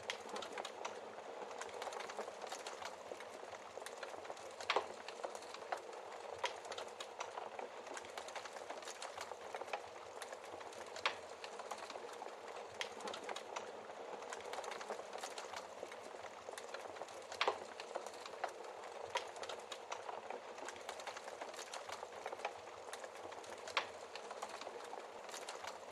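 Wood fire in a fireplace crackling: a steady soft hiss with many small irregular pops and a handful of sharper, louder snaps several seconds apart.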